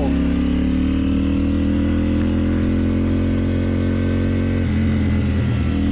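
KTM Duke 790's parallel-twin engine, fitted with an Akrapovič exhaust, pulling under throttle with its note rising slowly. Near the end the note breaks off for about a second, then picks up again.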